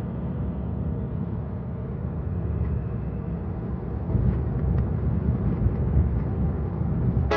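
Steady low road and tyre rumble from a moving Tesla Model 3, an electric car with no engine note.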